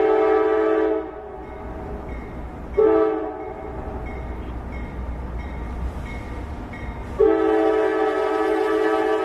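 Diesel freight locomotive's multi-chime air horn sounding the grade-crossing signal: a long blast ends about a second in, a short blast comes about three seconds in, and another long blast starts near the end. A low rumble and a bell dinging steadily run underneath.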